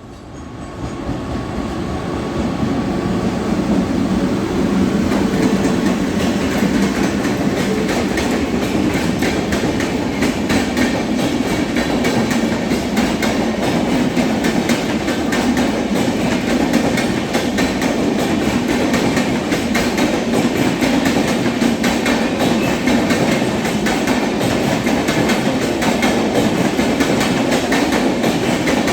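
Fast train running through the station without stopping, its wheels clattering rapidly over the rail joints. The noise builds over the first few seconds as the train comes in, then holds steady.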